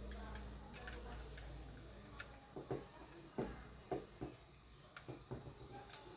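Irregular light clicks and knocks, about seven of them, over a low steady hum that fades out about halfway through.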